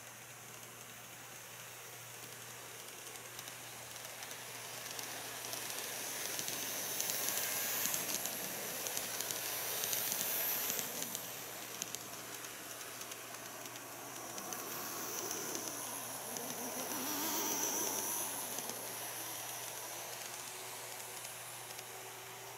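KATO N-gauge model electric trains running on track: a hissing rumble of small wheels and motor with faint rail-joint clicks, swelling twice as the trains pass close and then fading.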